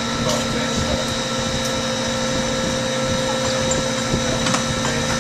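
Walk-in freezer refrigeration unit running, its evaporator fan having just come on after defrost: a steady whirring hum with several constant pitched tones and a few faint ticks.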